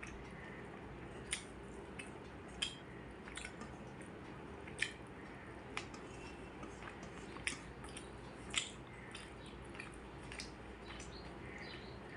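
A person chewing a meal of rice and fish curry, with soft wet mouth smacks and clicks coming irregularly every second or so over a steady low hum.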